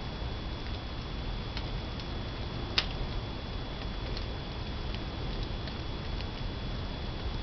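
Pinewood fire burning in a traditional wood-fired kiln: a steady low rumble with scattered crackles and one sharp pop about three seconds in.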